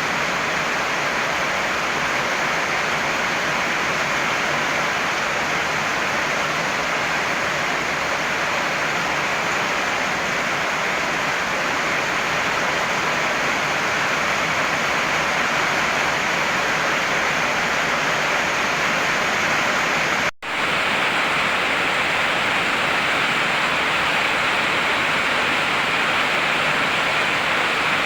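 Heavy rain pouring steadily as an even rushing hiss. About 20 seconds in, it cuts out for a split second and resumes with a slightly brighter tone, an edit splice in the recording.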